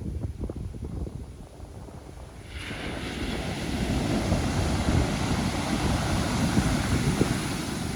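Pacific Ocean surf with wind buffeting the microphone. About two and a half seconds in, a wave breaks and its hissing wash comes in suddenly and builds louder.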